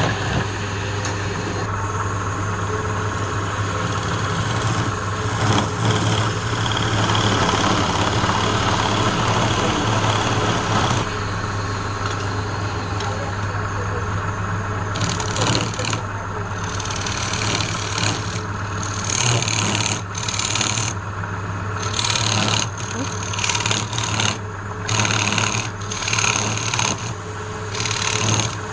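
Wood lathe running with a steady motor hum while a tool works the spinning wood. From about halfway the cutting comes in short passes, roughly one a second.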